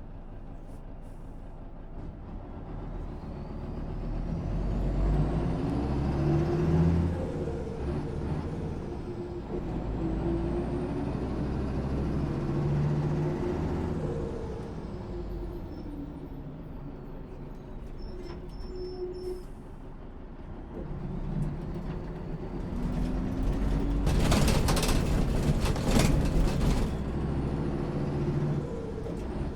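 A 1996 MAN SÜ 272 bus's diesel engine driving. The engine pitch climbs and drops several times as it pulls through the gears, with a faint high whine rising and falling with it. Near the end comes a loud hiss of compressed air from the air brakes.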